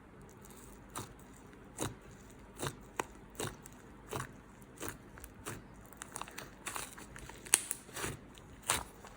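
Yellow slime being squeezed and stretched by hand, giving irregular crackles and pops, about one a second at first and more often after about six seconds in.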